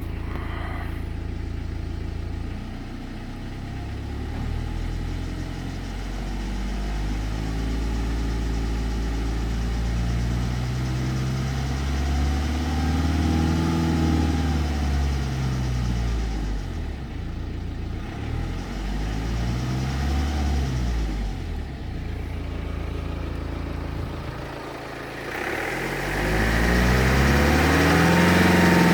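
BMW N47 four-cylinder diesel engine in a 320d E90 running, idling and revved up and back down several times, louder near the end. The owner wonders whether the noise it makes is a slack timing chain or normal.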